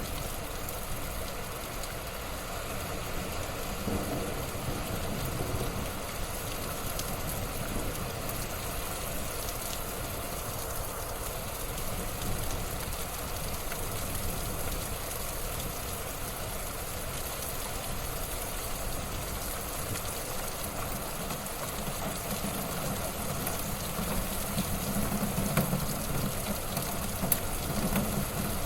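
Wood fire burning in a fireplace: a steady hiss and low rumble of the flames with faint crackles, and a few sharper pops near the end.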